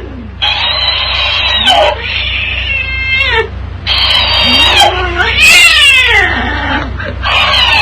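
Domestic cat yowling in a series of long, drawn-out calls with rough, gliding pitch, broken by short pauses.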